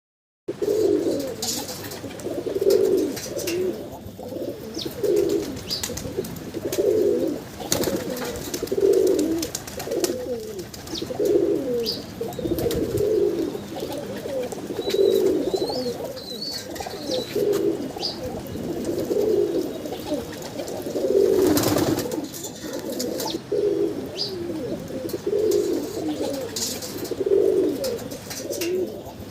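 Pigeons cooing, low calls repeated about every two seconds, with a few faint high chirps from small birds.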